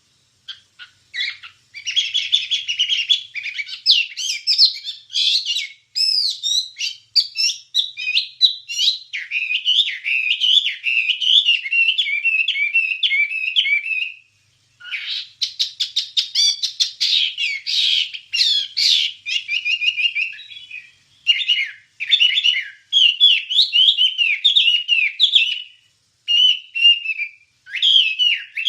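Chinese hwamei (wambie) singing a long, varied run of rapid, gliding whistled phrases, broken by brief pauses about halfway through and again near the end.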